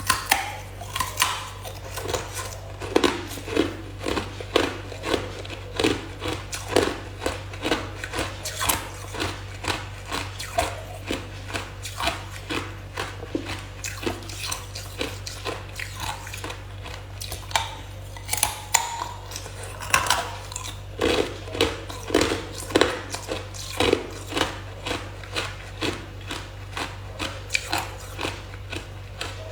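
Hard ice being bitten and chewed close to the microphone: a steady run of sharp crunches, about one or two a second, over a low steady hum.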